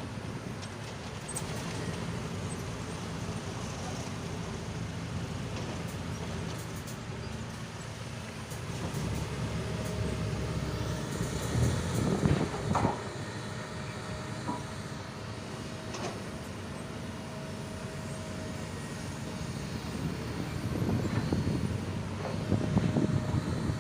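Vehicle engine and exhaust running with a steady low rumble. It swells louder briefly about twelve seconds in and again near the end.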